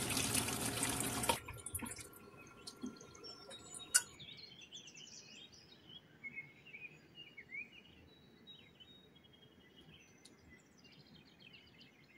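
Water splashing in a steel bowl as fish are rinsed by hand, cutting off about a second and a half in. After that, faint bird chirps and a few small clicks.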